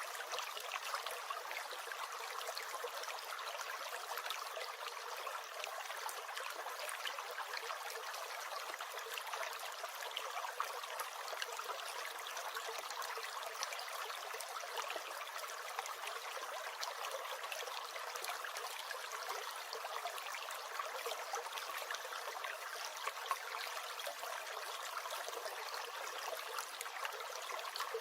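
Small stream gurgling and trickling steadily, a continuous babble of water with fine splashy detail.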